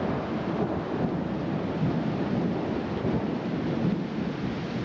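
Thunderstorm downpour: heavy rain pouring, with wind gusting on the microphone and a low rolling rumble of thunder.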